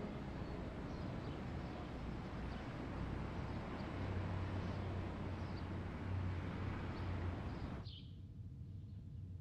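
Outdoor ambience: a steady noisy hiss with faint bird chirps, which cuts off abruptly near the end, leaving a quieter background and a clear bird chirp.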